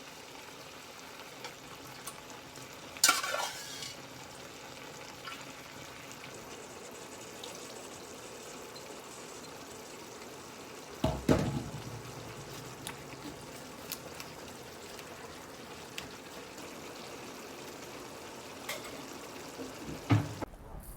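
Food sizzling steadily as it fries, with a few sharp clatters of utensils or dishes, the loudest about 3, 11 and 20 seconds in.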